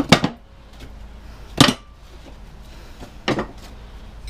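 Three sharp metal clanks about one and a half seconds apart as scrap parts and hand tools are handled on a workbench. The second clank is the loudest and rings briefly.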